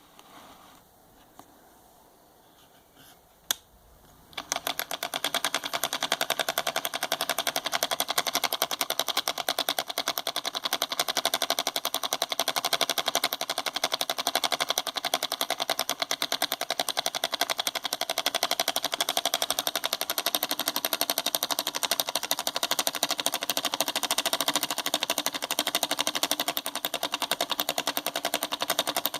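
Homemade miniature solenoid engine starting up about four seconds in after a single click, then running fast and steady: its solenoid plunger and switch contacts make a rapid, even clatter of clicks.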